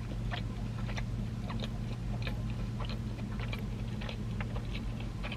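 A person chewing a mouthful of corn dog close to the microphone: small wet mouth clicks and smacks, about three a second, over a steady low hum.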